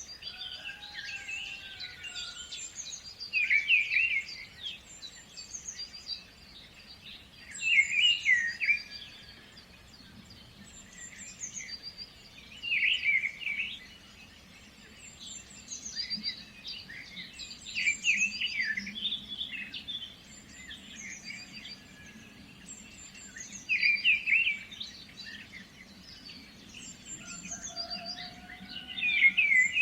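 Several songbirds singing and chirping, with a louder song phrase coming back every four to six seconds over steady lighter chirping.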